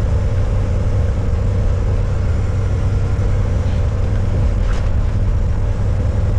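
Semi-truck engine and road noise heard inside the cab while driving: a steady low drone.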